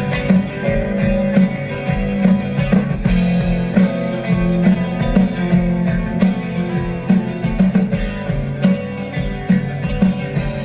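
Live rock band playing an instrumental passage with electric guitar and drum kit, before the vocals come in.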